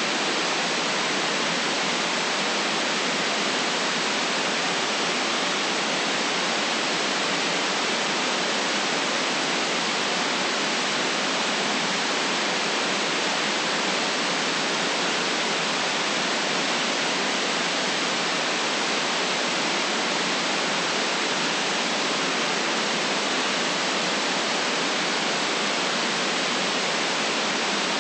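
Steady white noise, an even hiss with no change in level or pitch.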